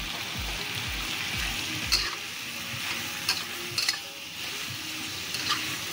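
Boiled chicken feet sizzling in hot oil with tomato in a wok, stirred with a metal ladle that knocks and scrapes against the pan now and then. Soft low thumps come about twice a second for the first two seconds, while the feet go into the wok.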